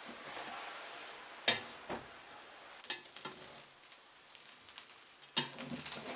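Food sizzling in a frying pan, with sharp clanks of a utensil against the pan as it is stirred. The loudest clanks come about a second and a half in and again near the end.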